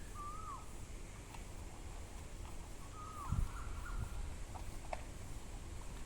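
Two short, downward-curling bird calls about three seconds apart, with a few fainter chirps, over a steady low rumble. A dull thump about three and a half seconds in is the loudest sound.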